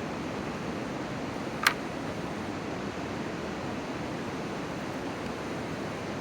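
Steady rushing outdoor noise, with one short sharp click about one and a half seconds in.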